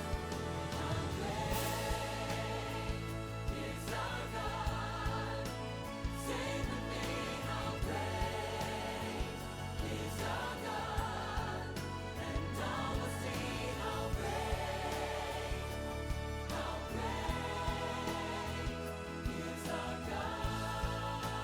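Christian choral music: a choir singing with instrumental accompaniment.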